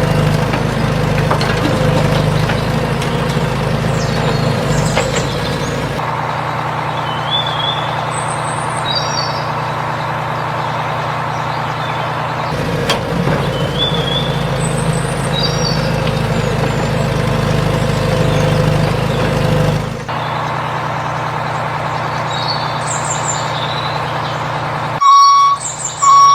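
A heavy vehicle's engine running steadily, with birds chirping faintly. Near the end the engine noise drops and a reversing alarm starts beeping.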